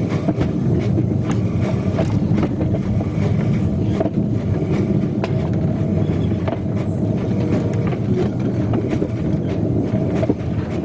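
Train running on rails: a steady rumble with many irregular clicks and rattles from the wheels and rolling stock.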